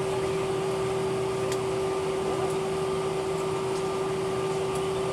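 Steady cabin hum inside an Airbus A319 on the ground after landing: an even rush of air and machinery with a constant mid-pitched tone running through it.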